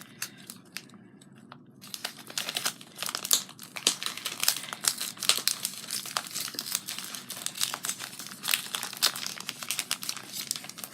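Plastic packaging crinkling and crackling as it is handled, starting about two seconds in and going on irregularly.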